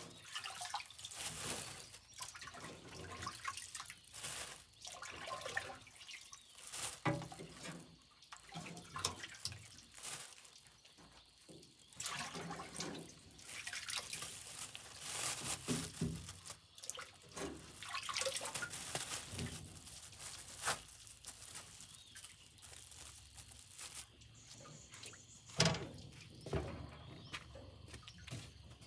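Water splashing and trickling in irregular bursts, with a few sharp knocks, the loudest about 26 seconds in.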